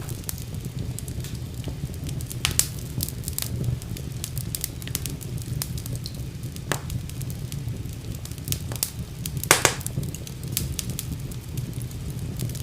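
Wood fire burning in a fireplace: a steady low rumble of flames with scattered crackles and sharp pops, the loudest pop about three-quarters of the way through.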